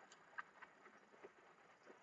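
Near silence with a few faint small clicks, four in two seconds, from a die-cast toy car being handled.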